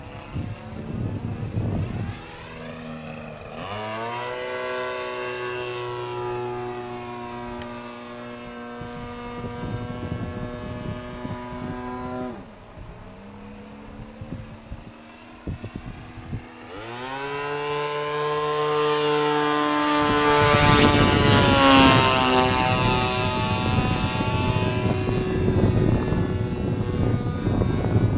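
Turnigy 30cc single-cylinder two-stroke gasoline engine of an RC Yak-54 model plane running. The note rises as the throttle opens about 4 s in, drops about 12 s in, and rises again about 17 s in. From about 20 s a loud rushing noise joins it and becomes the loudest sound.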